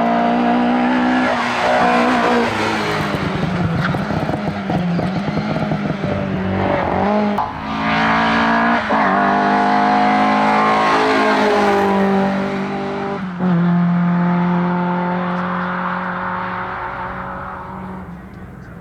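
Seat 124 Especial 1800's twin-cam four-cylinder engine at full throttle on a hillclimb run. The revs climb and drop sharply at several gear changes, then the sound fades as the car pulls away near the end.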